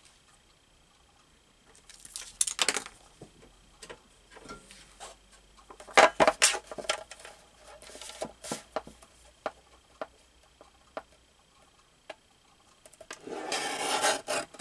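Paper cut-outs being handled and shifted on a craft table: scattered rustles, scrapes and light taps, with a longer rustling scrape near the end.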